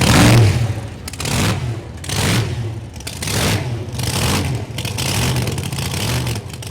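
A car engine revved repeatedly in short blips, about one rev a second, each rising and falling in pitch.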